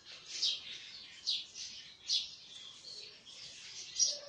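A bird chirping: short, high chirps about once a second.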